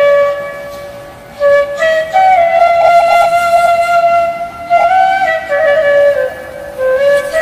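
Background music: a solo flute melody of long held notes with short ornamental trills.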